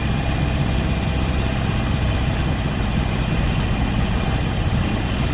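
Harley-Davidson Sportster 883's air-cooled V-twin engine idling with a steady, uneven low rumble.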